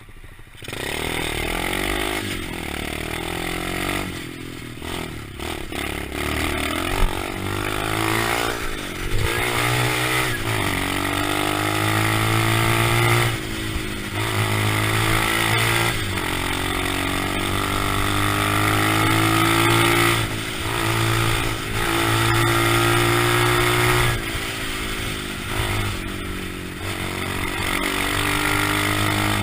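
125cc pit bike engine running hard, revving up and easing off over and over. It starts abruptly under a second in, and a single sharp knock stands out about seven seconds in.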